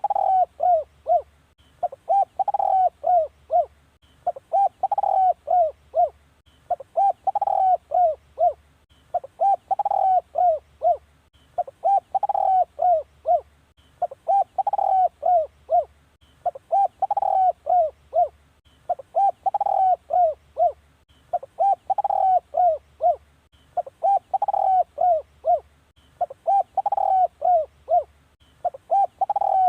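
Spotted dove cooing in short phrases of several coos, one phrase about every two and a half seconds in an even repeating pattern: a spotted dove lure call.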